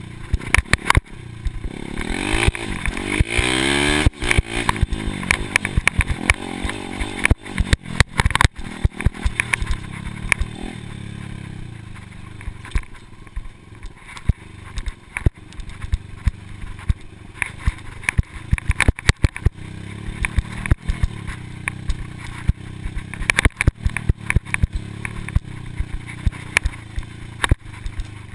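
Motocross dirt bike engine running, its pitch rising and falling with the throttle, with frequent sharp knocks and clatter.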